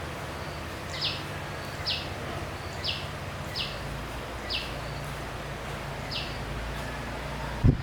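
A bird calling repeatedly: a short, high, falling note about once a second, over a steady low hum. Loud knocking begins right at the end.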